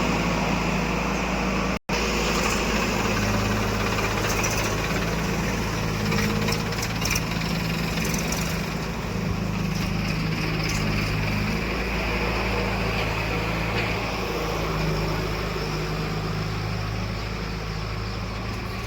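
Diesel engine of earthmoving and farm machinery running steadily, its pitch shifting a little as it works, with a split-second break in the sound about two seconds in.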